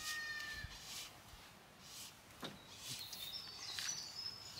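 Wild songbirds around the pond: a clear whistled note held for most of a second at the start, then high, quick whistled song phrases in the second half.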